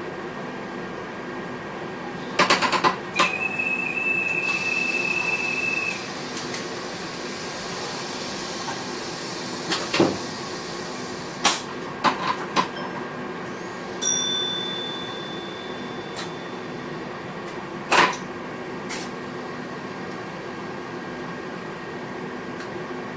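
Inside the driver's cab of an NS VIRM double-deck electric train: a steady hum of cab equipment, with a quick run of clicks and knocks about two and a half seconds in, followed by a held electronic beep for about three seconds. Further single knocks and clicks come through the middle, and a second, fainter beep starts about fourteen seconds in.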